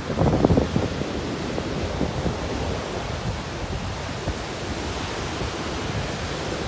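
Ocean surf breaking and washing on a beach, a steady rushing noise, with wind buffeting the microphone in the first second.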